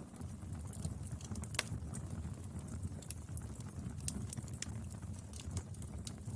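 Wood fire burning: a steady low rumble of flame with irregular crackles and snaps, one sharper pop about a second and a half in.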